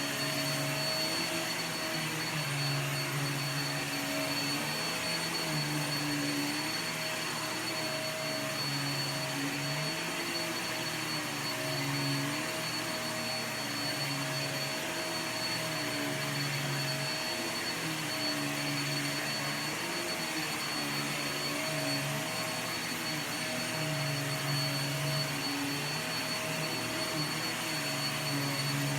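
Hoover vacuum cleaner running steadily with a constant high whine. Its low motor hum shifts in pitch and strength every couple of seconds.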